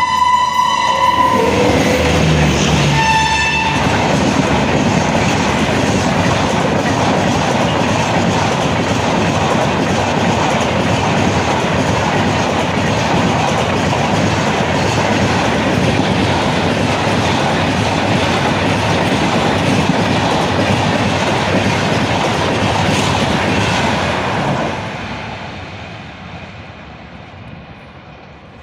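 Electric locomotive sounding its horn: a long blast that ends about a second in and a short second note about three seconds in. The express train's coaches then run past at speed with a loud, steady rush of wheels on rails, which fades away over the last few seconds as the train recedes.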